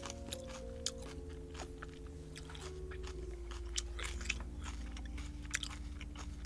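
Close-miked chewing of crunchy stir-fried water spinach, with many small crisp crunches and wet mouth clicks.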